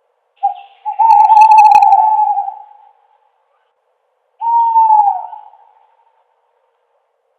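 An owl hooting: a brief note, then a long, steady hoot about a second in, and a shorter hoot that falls in pitch about four and a half seconds in.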